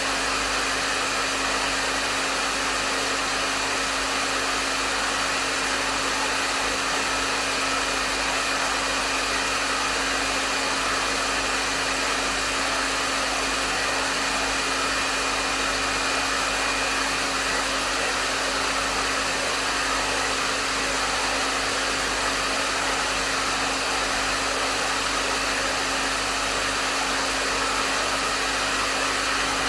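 Hair dryer running steadily: an even rush of blown air with a steady low motor hum underneath.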